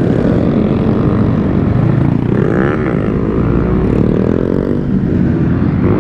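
Steady, loud rush of wind and road noise while riding an electric mini bike. A passing or revving vehicle makes a rising-then-falling pitch about two and a half seconds in.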